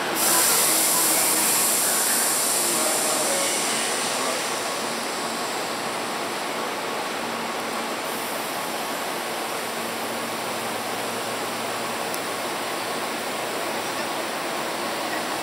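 Station platform ambience beside a stopped electric commuter train: a steady hiss, with a louder high hiss that starts sharply at the beginning and fades away over about four seconds.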